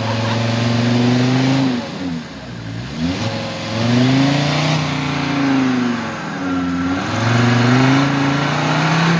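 An off-road trophy prototype's engine revving hard while the vehicle is stuck in mud. Its pitch sags twice, a couple of seconds in and again about two-thirds of the way through, then climbs back each time.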